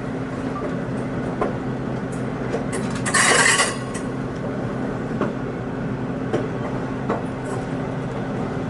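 Excursion train heard from aboard while rolling: a steady low hum with scattered clicks of the wheels over the rails. About three seconds in there is a brief, loud hiss.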